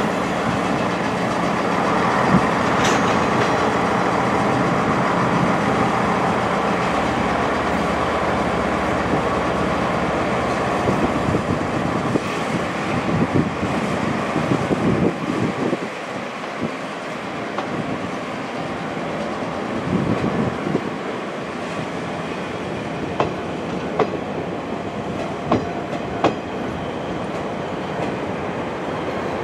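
DE10 diesel locomotive hauling passenger coaches out of the station, its engine running steadily for the first ten seconds or so. After that come wheel noise and scattered clicks as the coaches roll over the rail joints and move away.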